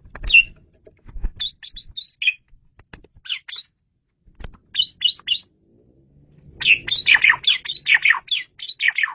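Male Asian pied starling (jalak suren) singing clear, loud phrases of short notes. The phrases are scattered at first and build to a dense run of song in the last two and a half seconds, with a couple of low thumps near the start.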